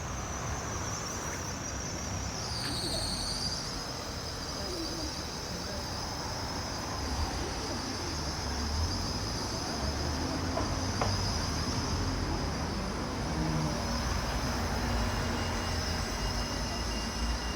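Low road-traffic rumble with a steady high-pitched whine that dips briefly in pitch about three seconds in.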